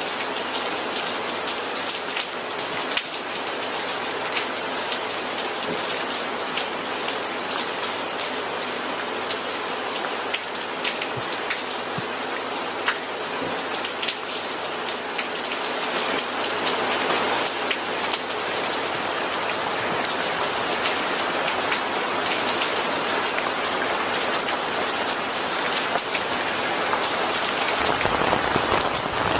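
Steady rain falling on a hard surface, a dense hiss with many close drop patters, growing slightly heavier in the second half.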